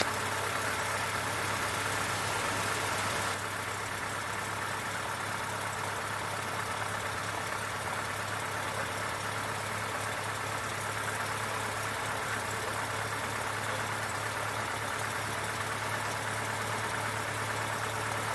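Cessna 152's Lycoming O-235 four-cylinder engine idling steadily after the run-up check, its level dropping slightly about three seconds in.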